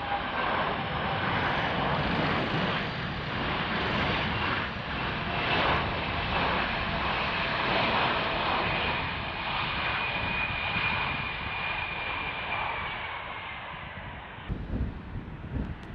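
Jet engines of a large airliner on landing approach. A steady roar with a high whine that slowly drops in pitch as the plane passes. Low thumps come in near the end.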